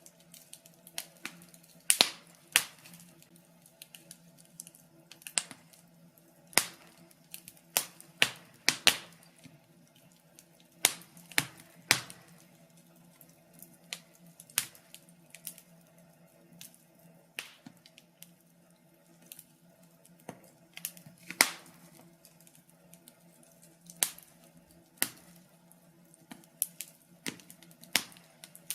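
Wood fire crackling in a fireplace: irregular sharp pops and snaps, several a second at times, with a few louder pops about 2, 12 and 21 seconds in. A faint steady low hum runs underneath.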